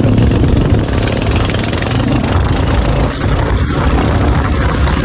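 Royal Enfield Bullet motorcycle's single-cylinder engine running steadily under way.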